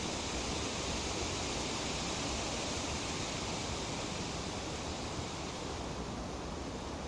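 Tree leaves rustling steadily in the wind, an even hiss that eases slightly about five seconds in.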